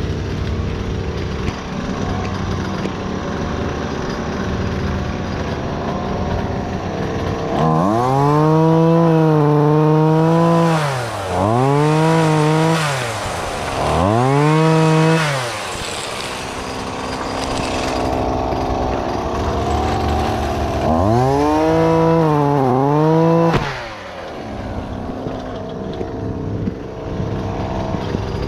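Chainsaw revving four times, each burst rising to full speed, held a second or two and dropping back, with the pitch sagging under load in the last one, over a steady lower engine hum.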